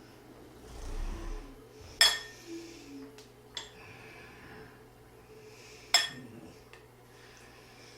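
Cutlery clinking against dishes during a meal: two sharp, loud clinks about four seconds apart, with a few lighter taps between them.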